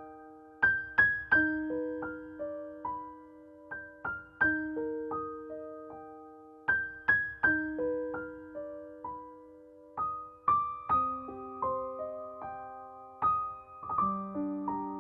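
Background music: solo piano playing slow, gently repeating broken chords, each note struck and left to ring out.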